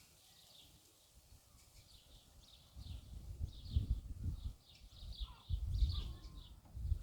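Small birds chirping repeatedly in short high notes. From about three seconds in, louder low rumbling bumps come and go.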